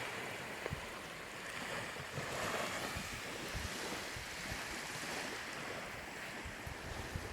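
Ocean surf washing on a beach, a steady rush that swells a little a couple of seconds in, with low wind buffets on the microphone.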